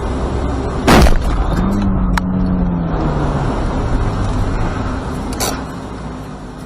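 Vehicle and road noise from a car on a winter road, with one loud bang about a second in, the sound of an impact, and a smaller knock later; the sound fades out near the end.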